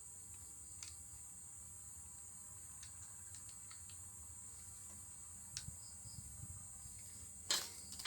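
Steady high-pitched chirring of crickets, with a few faint small clicks and a sharper, louder click about seven and a half seconds in.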